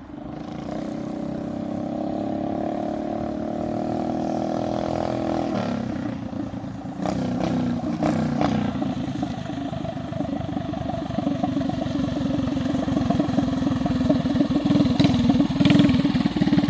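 Four-stroke mini bike engine running: a steady, higher note for about five seconds, then it drops to a lower, rougher pulsing run that grows louder toward the end, with a couple of sharp clicks midway.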